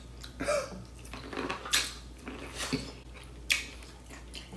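A man eating boiled corn on the cob: chewing and lip smacking, heard as a string of short, irregular smacks and clicks.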